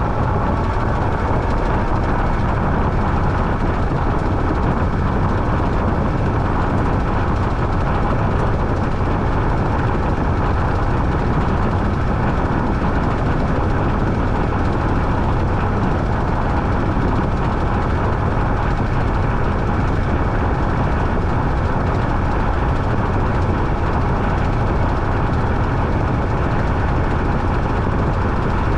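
Washing machine running with a loud, steady, unbroken mechanical noise.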